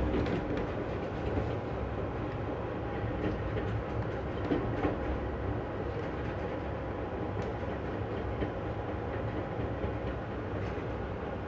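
Amtrak passenger train rolling along the rails, heard from inside a passenger car: a steady rumble with a few faint clicks.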